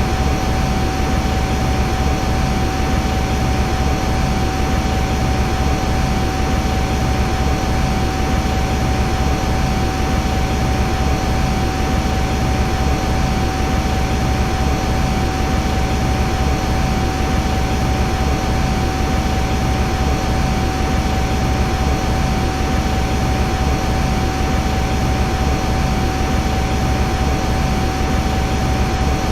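Metal lathe running: a steady whine held on one pitch over an even machine noise, with no change in speed or load.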